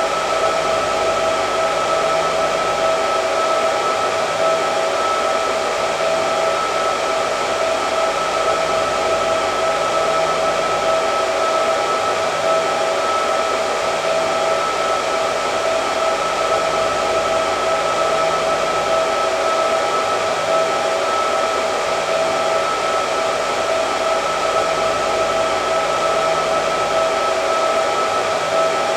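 Hair dryer running steadily: a constant rush of air with a steady whine from its motor and fan.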